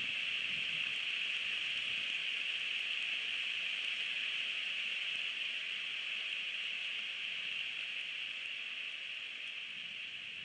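Steady rain falling on and around a bald eagle nest, heard as an even hiss through the nest-cam microphone, slowly fading near the end.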